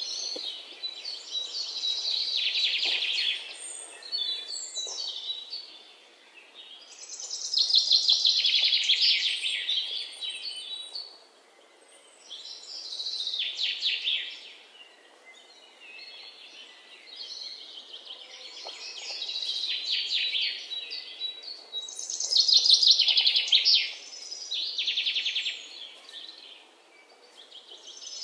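Birds chirping in repeated bursts of rapid trills every few seconds, with quieter gaps between them.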